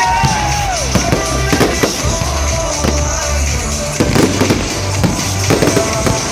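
Fireworks going off in repeated bangs and crackles, with music playing under them.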